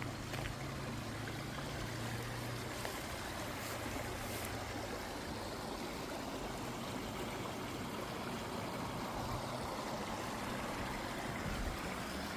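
Steady rushing of running water, even and unbroken, with a low hum underneath that fades out about five seconds in.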